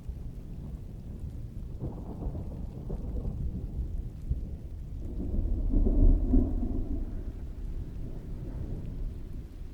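Thunder rolling in a rainstorm: a low rumble that swells to its loudest about six seconds in and then fades, over the hiss of steady rain.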